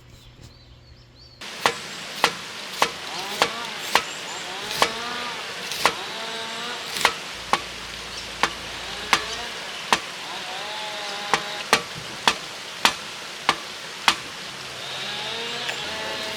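A knife chopping on a cutting board: sharp single strikes, roughly one or two a second, starting about a second and a half in over a steady hiss.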